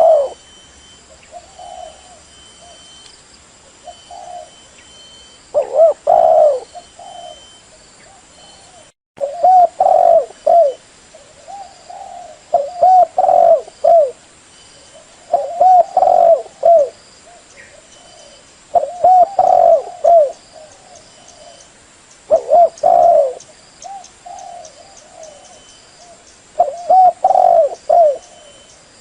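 Female spotted dove cooing, a short phrase of several coos about every three seconds, with a brief break in the recording about a third of the way in.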